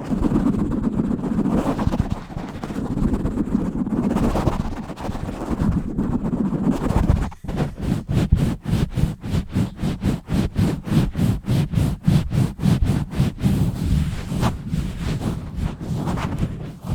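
Scratching and rubbing directly on an uncovered microphone. At first it is a continuous rough rubbing. From about seven seconds in it changes to fast, rhythmic scratch strokes, about five a second.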